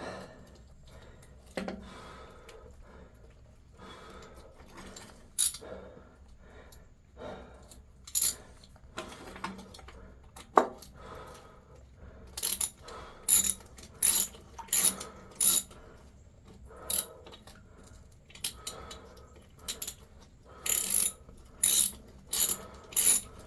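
Small hand ratchet being worked to tighten down the fittings on a spliced water line: scattered clicks and metal clinks at first, then from about halfway through a run of short ratchet strokes, one every half second to a second.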